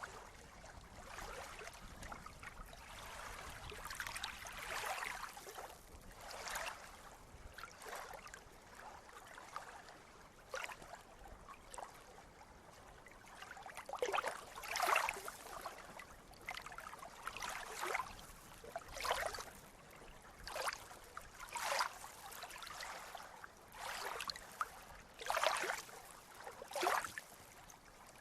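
Small waves of water lapping and splashing, with short irregular splashes about every second or two over a soft wash, the splashes growing more distinct in the second half.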